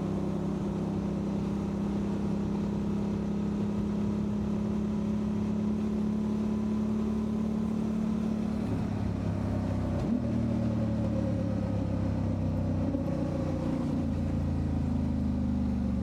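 Motorcycle engine running under way, steady at first. About ten seconds in the pitch drops briefly, as at a gear change, then climbs steadily as it picks up speed again.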